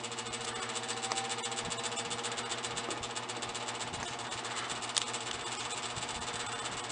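Lakewood S23 box fan running on low from a cold start, its motor humming under a fast, rattling tick. It gets louder over the first second as it spins up, then holds steady, with one sharp click about five seconds in.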